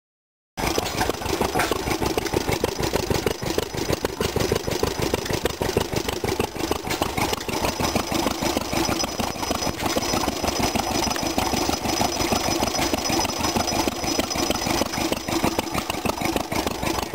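Vintage stationary gas engines running, a rapid, irregular train of firing pulses that starts abruptly about half a second in and carries on steadily.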